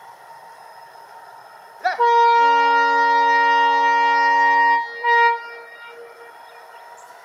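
Diesel locomotive air horn, WDG 4D: one long multi-note blast of about three seconds, then a short toot. Steady train running noise lies under it.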